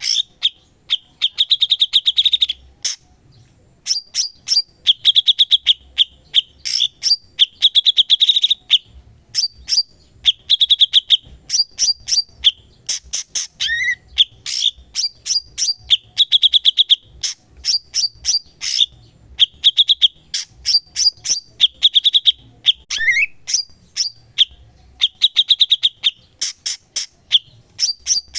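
Cucak cungkok singing non-stop: quick, sharp chips in fast runs, broken by short buzzy trills, with a rising slurred note twice.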